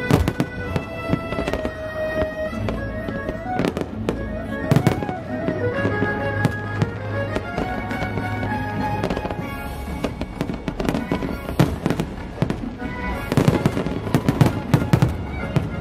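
Aerial fireworks bursting in repeated bangs and crackles over music. A dense rapid flurry of bangs comes about thirteen seconds in.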